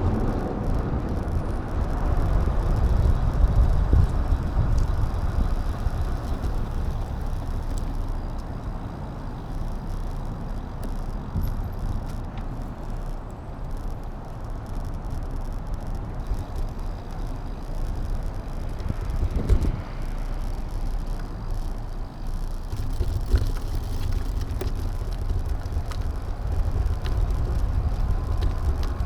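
Wind buffeting the microphone of an action camera and road rumble from a riding bicycle, a steady low rush that eases off in the middle, with a couple of short knocks near the end.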